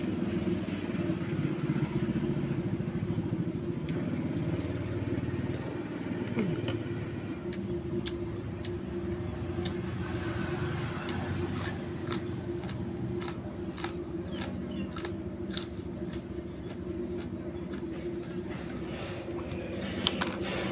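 Person eating a bowl of noodle soup: short clicks and taps of spoon and chopsticks against the bowl, bunched in the middle stretch, over a steady low motor-like hum.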